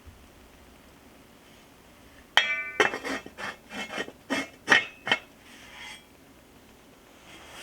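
Dishes or glassware clinking: one sharp ringing clink about two seconds in, then a quick run of clinks and knocks for about three seconds.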